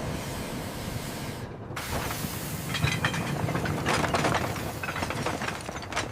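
Steam-like hissing over a low rumble, with bursts of crackling ticks a few seconds in: a sound effect for the fiery train tearing through the snow.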